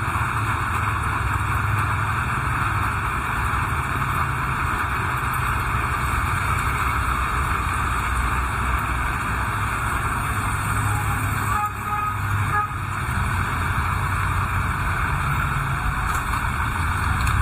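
Steady heavy rain, a dense even hiss over a low rumble. About twelve seconds in, a short tone sounds for about a second.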